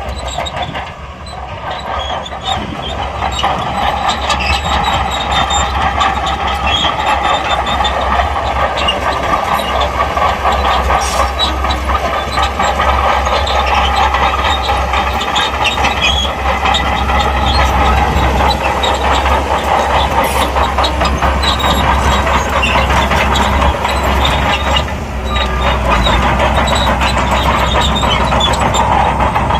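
SHANTUI crawler bulldozer working: its diesel engine runs under load with a low rumble while the steel tracks clatter steadily. The noise dips briefly twice, about a second in and again near the end.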